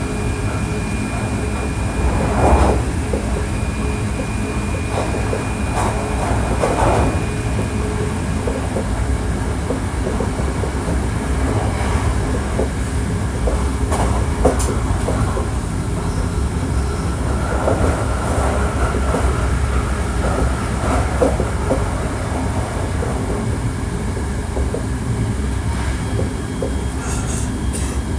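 Hankyu 1300 series electric train running at speed, heard from inside the car: a steady low rumble of wheels on rail with occasional clacks over rail joints, and steady high-pitched whines from the drive equipment that come and go.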